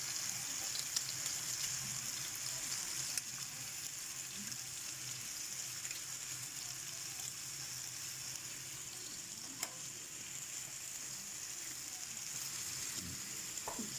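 Oil and vegetables sizzling steadily in a tagine over the heat, with a couple of faint clicks; no water has been added yet, so the contents are frying.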